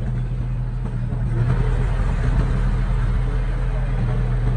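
Diesel engine of a small construction machine running steadily, growing louder about a second in.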